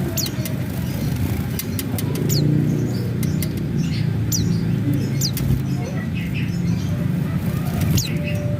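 Small white-eyes (pleci) giving short, high chirps every second or so, each one sweeping down in pitch, over a steady low rumble.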